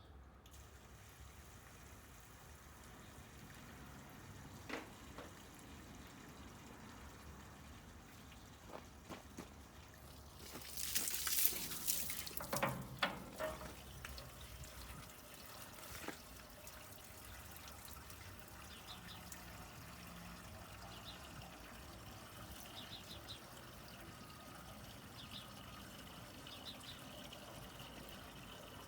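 Water trickling and pouring into a snowcat's radiator as it is refilled, with a louder rush of pouring about eleven seconds in and a few sharp clicks and knocks.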